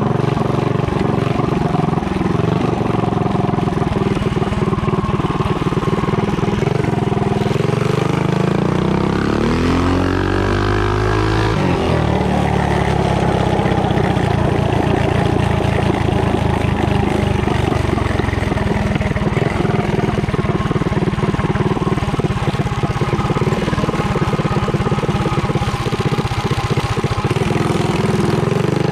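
Mini bike's small single-cylinder engine running on a torque-converter drive during an acceleration run. Its note climbs in pitch about nine to twelve seconds in as it revs up, then runs steadily.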